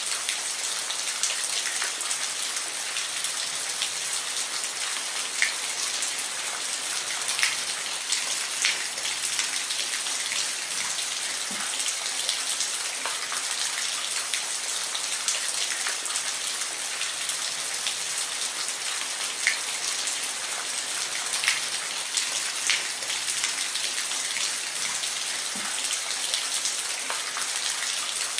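Steady rain falling, a dense even hiss with individual drops ticking sharply now and then.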